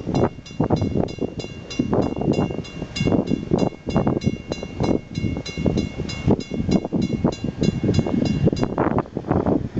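Railroad grade-crossing bell ringing at about four strikes a second, stopping near the end, over a low uneven rumble and wind buffeting the microphone.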